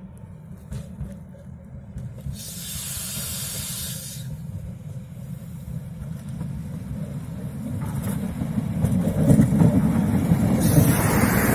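Train Jaune electric railcar approaching on the metre-gauge line, its low rumble growing steadily louder until it is close and loud near the end. A brief hiss about two seconds in.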